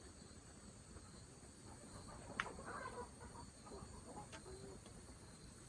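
Chickens clucking softly, with a sharp click about two and a half seconds in, over a steady high-pitched insect drone.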